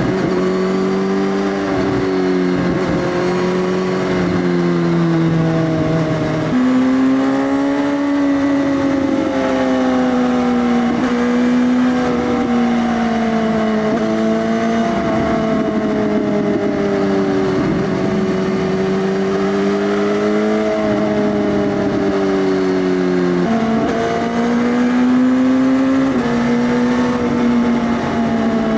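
2018 Suzuki GSX-S1000's inline-four running through an Arrow Race Tech full exhaust system with the dB killer removed, at part throttle with the revs drifting up and down. The revs jump suddenly twice, about six and a half and twenty-three and a half seconds in, as at gear changes.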